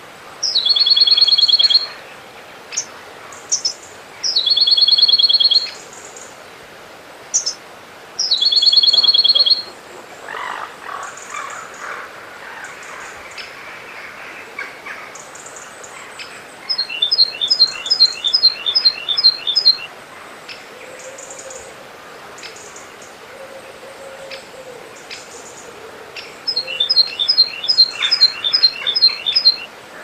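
Songbirds calling: three loud, rapid trills of about a second and a half each in the first ten seconds, then two runs of about ten quick, descending chirps, each run lasting about three seconds.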